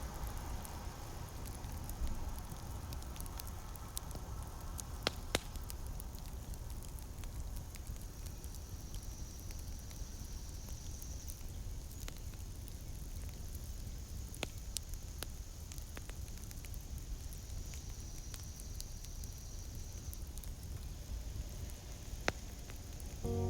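Wood fire in a campfire pit burning with a steady low rush and a few sharp crackling pops.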